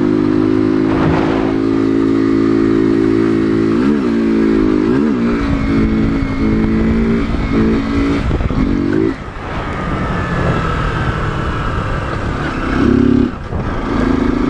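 Motorcycle engine running with the throttle worked: a steady note that swings briefly about 4 and 5 seconds in, climbs and then drops off about 9 seconds in, and revs up again briefly near 13 seconds.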